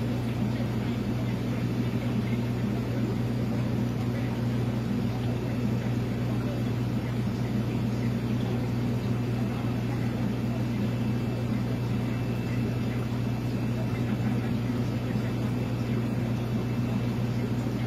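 Aquarium pumps and filtration equipment humming steadily at a low pitch, with a faint even hiss above.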